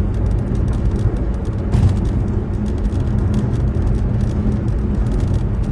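Steady low rumble of vehicle road noise, with a few faint clicks.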